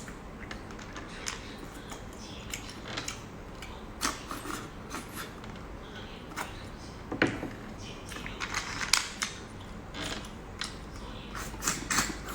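Close-up eating sounds: irregular crunching and clicking as cooked seafood shell is cracked and the meat chewed, with louder clusters of cracks now and then.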